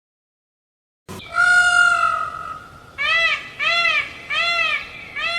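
A cat meowing: one long meow about a second in, then four short, rising-and-falling meows in quick succession.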